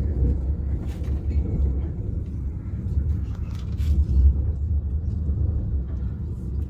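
Low steady rumble of an ICE high-speed train running along the track, heard from inside the passenger car, with a few faint ticks.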